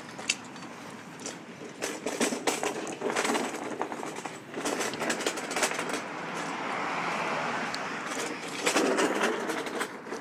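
City street traffic while walking: irregular clicks and knocks from footsteps and the handheld camera, with a vehicle swelling past about six to eight seconds in.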